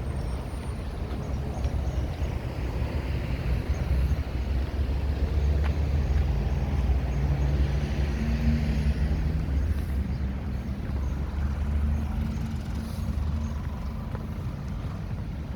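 Engine of a heavy road vehicle running close by in street traffic, a low hum with a steady pitch. It grows louder after the first few seconds and eases off near the end.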